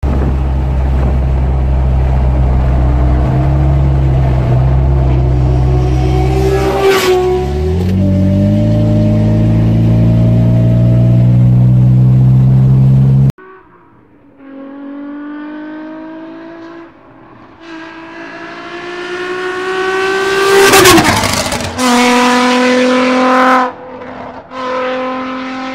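Nissan 350Z's VQ35 3.5-litre V6 pulling hard under acceleration, heard from inside the cabin: a steady low drone, a gear change about seven seconds in, then the engine note rising steadily. After a cut, a 350Z's exhaust builds from quiet into rising revs, peaks loudly, then goes through a quick series of upshifts with short breaks in between.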